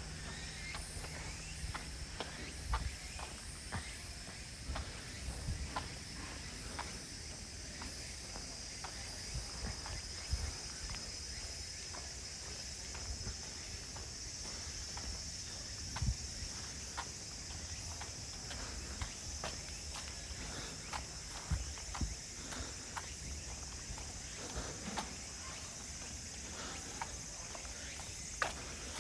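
A steady, high-pitched chorus of crickets and other late-summer insects, with footsteps on a path sounding at a regular walking pace.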